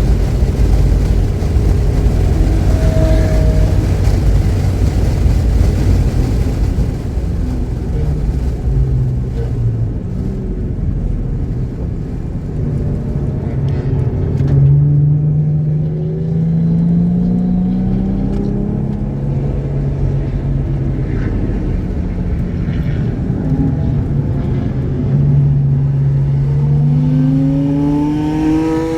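Car engine under hard driving on a race track, its pitch climbing under acceleration and dropping again several times, with a long rising pull near the end. It runs cleanly, without misfiring.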